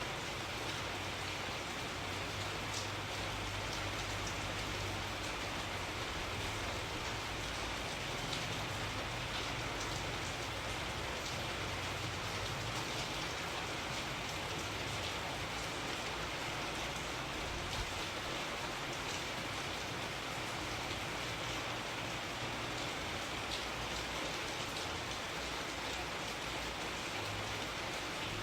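Steady rain falling, with an even hiss of drops, a few sharper drop ticks and a soft low rumble beneath.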